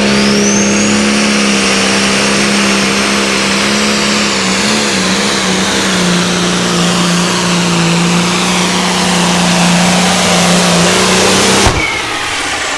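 Tractor engine running hard at high, nearly steady revs, its pitch dipping slightly midway. Near the end the sound cuts abruptly to a quieter engine sound.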